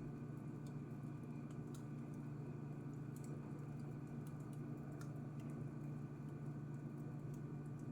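Wood fire in a fireplace crackling, with a handful of sparse, faint pops and snaps spread over several seconds. A steady low hum runs underneath.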